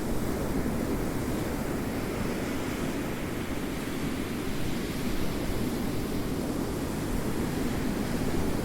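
Ocean waves rolling in a continuous wash of surf, easing a little midway and building again.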